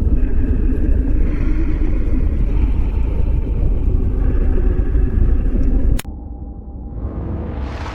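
Deep, steady rumble that cuts off abruptly about six seconds in at a sharp click. A quieter sound follows, and a hiss builds and rises in pitch near the end.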